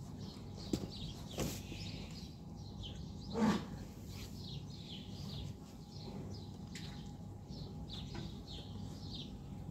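Small birds chirping over and over in short falling notes, over a faint steady low hum. A brief louder noise about three and a half seconds in.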